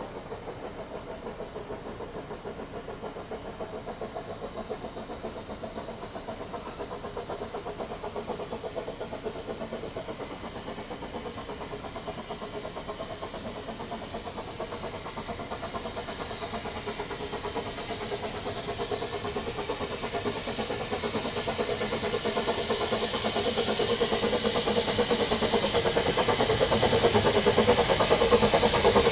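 Steam locomotive working and drawing nearer, its sound growing steadily louder.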